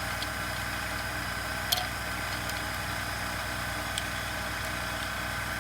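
Steady mechanical hum with a few light clicks, the sharpest a little under two seconds in and another about four seconds in.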